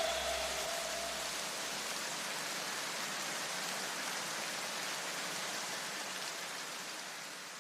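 Steady, even rain-like hiss with no clear source, slowly fading out; a low bass note from the music just before dies away in the first two seconds.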